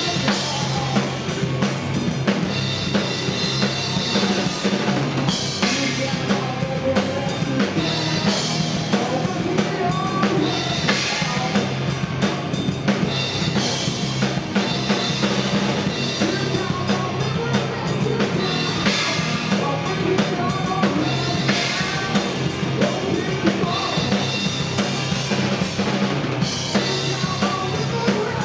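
Live heavy rock band playing, with a drum kit keeping a steady kick and snare beat under dense, loud electric guitar and bass.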